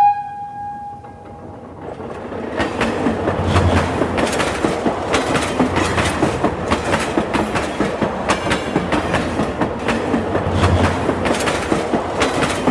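A train horn's steady note fades out in the first second and a half. Then the wheels of an Indian Railways passenger coach clatter over the rail joints and points, a dense rapid clickety-clack that grows louder about two seconds in and keeps going.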